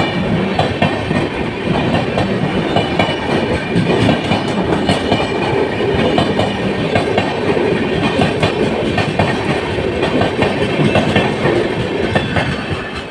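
Pawan Express passenger train running along the track, its coach wheels clattering steadily over the rail joints with continuous rumble.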